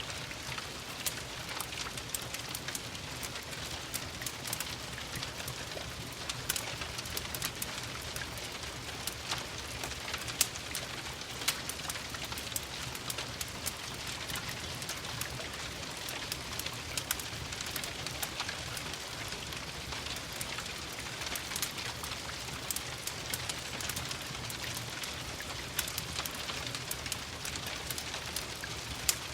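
Steady rain pattering, mixed with irregular sharp crackles and pops of a wood fire in a fireplace.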